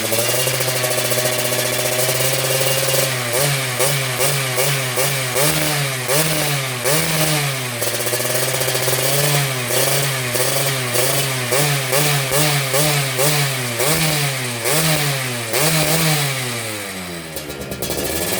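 Motorcycle engine with a hollowed-out stock exhaust, its engine bored 50 oversize and ported. It holds a steady speed for the first few seconds, then is revved in repeated short throttle blips, the pitch rising and falling about once a second. Near the end the revs fall away before picking up again.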